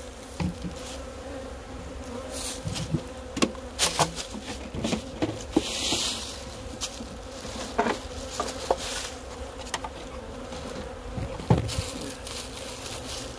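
A swarm of stirred-up honey bees buzzing in a steady hum around an opened hive, with scattered sharp knocks and rustles of hive parts being handled.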